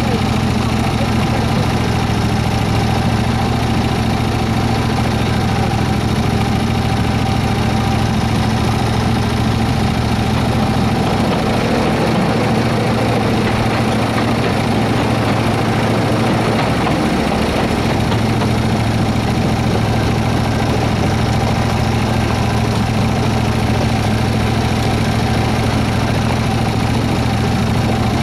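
Engine of a 7¼-inch gauge miniature Baldwin S-12 locomotive running steadily while the locomotive is driven along the line. Its low note eases off for several seconds about midway, then comes back.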